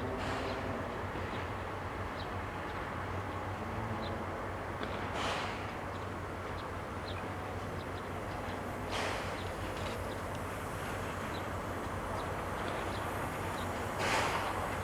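Locomotives of a steam-hauled train at a station: a steady low engine hum, broken four times by short bursts of hiss, the last one the loudest. Faint light ticks run throughout.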